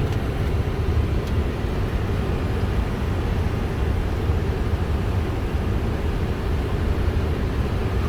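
Steady rumble of airflow and engines heard on a Boeing 747-400's flight deck on final approach with the landing gear down.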